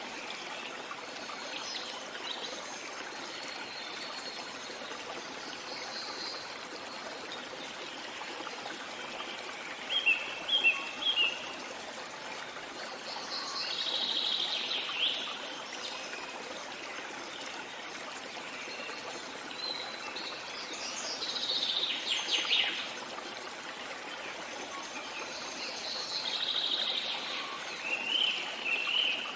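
Songbirds singing over the steady rush of a flowing stream. The birds call in separate phrases: three short sharp notes about a third of the way in, then longer trilling songs in the middle and near the end.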